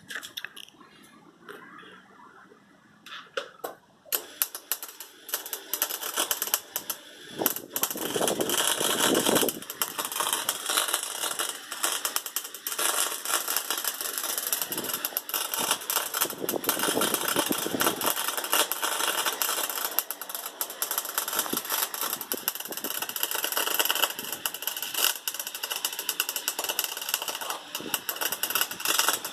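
Wire-feed (MIG) welder arc crackling in a fast, irregular run of pops, starting about four seconds in and continuing steadily. The welder is on its maximum setting, which the welder feels is still not powerful enough, melting only the wire.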